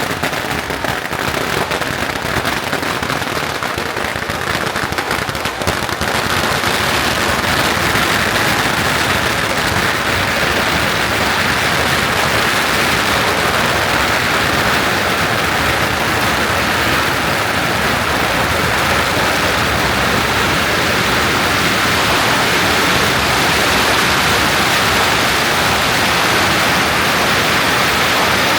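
A long barrage of firecrackers going off without pause. For the first several seconds it comes as separate sharp cracks, then it merges into one continuous, dense crackle.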